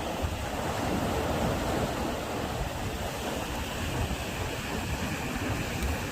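Sea waves washing against the harbour shore in a steady wash of surf, with a low rumble running under it.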